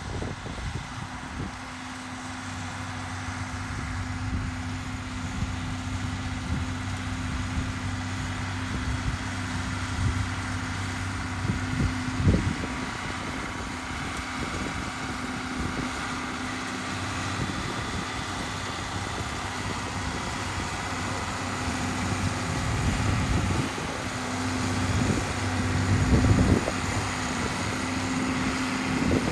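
A tractor engine running steadily under load while planting, heard as a low, even hum. A couple of low thumps come about twelve seconds in and again near the end.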